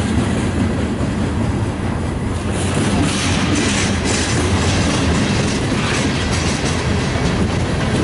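Freight train cars rolling past at trackside, wheels clicking over rail joints over a steady low rumble, as the train is backed by a pair of CSX GP40 locomotives. The clicking and rattling turn sharper and closer about two and a half seconds in.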